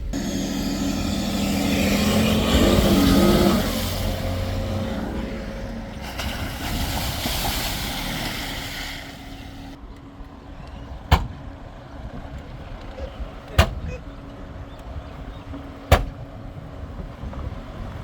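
A car engine running and revving, loudest about three seconds in, over a rushing noise that dies away about ten seconds in. After that the engine runs more quietly, with three sharp knocks about two and a half seconds apart.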